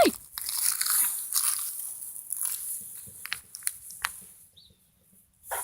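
Footsteps crunching on frozen ground, then a few sharp cracks about three to four seconds in.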